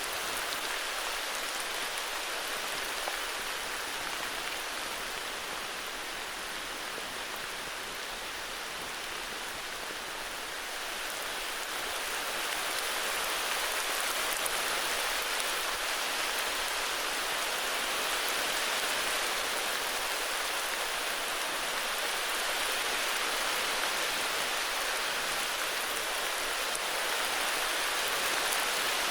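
Heavy rain falling steadily, an even hiss that swells slightly about halfway through.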